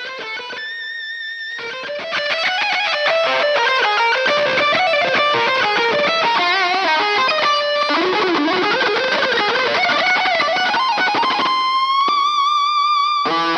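Distorted electric lead guitar, played through the Aurora DSP Laboga Chainsaw distortion plugin, running through a melodic solo line with bends and vibrato, ending on a long held note.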